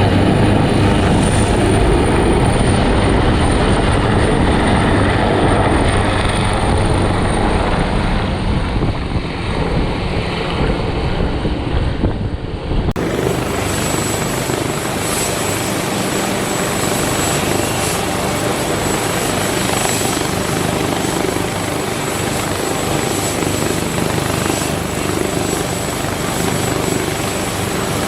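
Helicopter running close by, a loud steady rotor and engine noise. Its character changes abruptly about halfway through.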